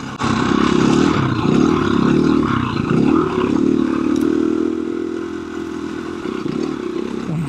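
KTM 350 EXC-F dirt bike's single-cylinder four-stroke engine running under throttle on a rough trail, its pitch rising and falling for the first few seconds as the throttle is worked, then holding steadier and slightly quieter.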